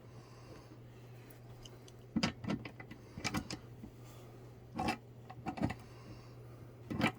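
Irregular knocks and clatter of metal table parts being handled while the sewing-table legs and feet are adjusted. Several come in quick groups about two and three seconds in, around five seconds and near the end, over a steady low hum.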